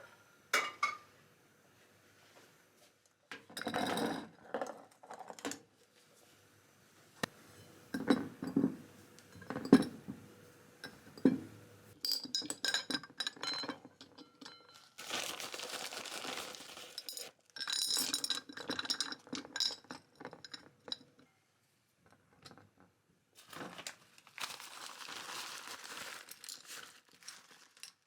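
Kitchen handling sounds: glass and dishes clinking, separate knocks, and several stretches of crinkling of packaging, each lasting a second or two.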